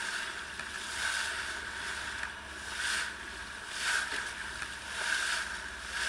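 Small ferry boat running under way: a steady engine drone with water rushing and splashing along the hull, swelling every second or two.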